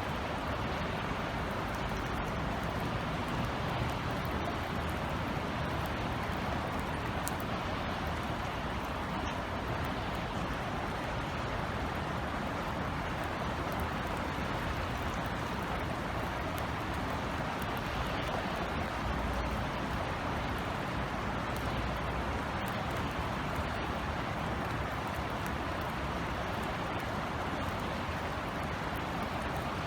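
Steady rain falling, an even hiss with a low, steady city rumble beneath it.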